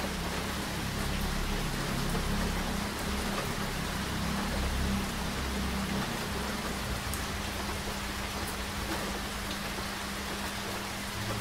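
Steady rain falling: an even hiss with occasional single drops ticking, over a low steady hum.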